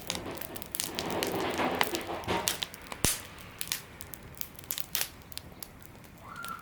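Campfire crackling with scattered sharp pops, one loud pop about three seconds in, and a crinkling rustle of something being handled for about two seconds near the start.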